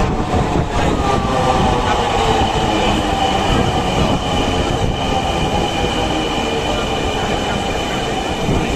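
Dhaka metro rail train running, a steady loud rumble with an electric whine that dips in pitch early on and a thin high whine held steady later.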